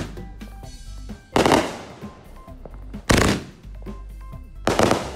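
Consumer firework cake firing its shots in sequence: a loud bang roughly every second and a half, three of them plus one just at the start, each trailing off before the next.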